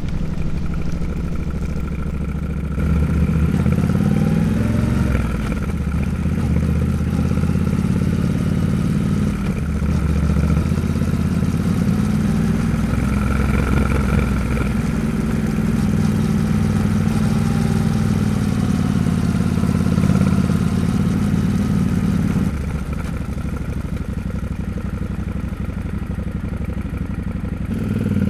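Yamaha Ténéré 700's 689 cc parallel-twin engine running on the road. It grows louder about three seconds in and holds steady, then eases off for a few seconds near the end before picking up again.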